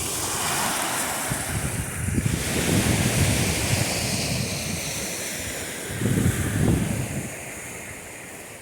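Small lake waves washing onto the beach, a steady rush with two louder swells, one about two seconds in and another about six seconds in, with wind rumbling on the microphone.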